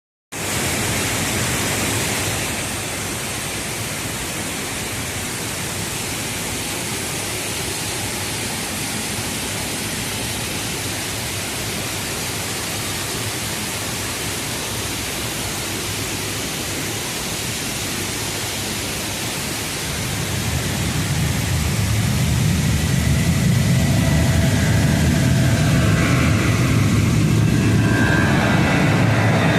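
Boeing 737 airliner's jet engines: a steady hiss, then from about twenty seconds in a louder rumble with whining tones as the plane comes closer.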